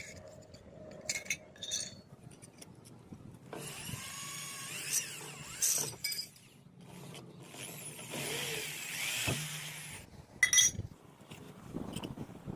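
A handheld power tool runs in two spells of about two seconds each, its pitch sliding up and down, with a few sharp clicks and clinks around them.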